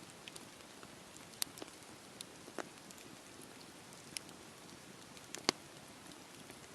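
Campfire crackling: a soft steady hiss of burning wood with irregular sharp pops and snaps, the loudest about one and a half seconds in and again about five and a half seconds in.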